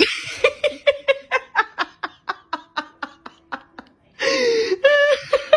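A person laughing in a run of short, evenly spaced bursts that slow and fade, then a louder, wavering cry near the end.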